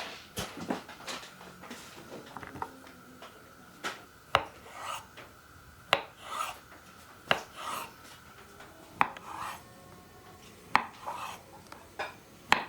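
Knife working food on a cutting board: sharp knocks a second or two apart, each followed by a short scraping rasp.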